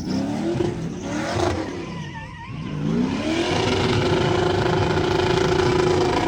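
Car engine revving hard. The revs fall off and dip about two seconds in, then climb quickly and are held high and steady, as during a burnout.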